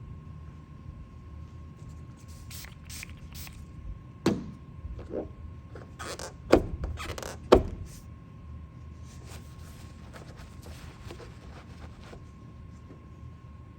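Paintless dent repair tools at work: light clicks and taps, with three sharp knocks in the middle, a second or two apart.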